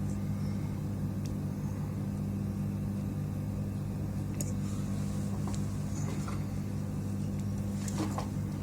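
Steady low electrical hum from workbench equipment, with a few faint light clicks of tools being handled.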